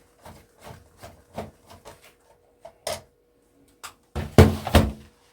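Light clicks and scrapes of a screwdriver and plastic casing being handled while a satellite receiver is taken apart, followed about four seconds in by a louder scraping rattle lasting about a second.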